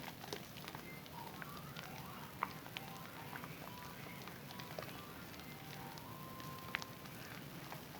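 A Zest bar soap being lathered in wet hands: a steady wet crackle of lather and bubbles with scattered sharp clicks and brief squeaks, two clicks standing out, one a little before the middle and one near the end.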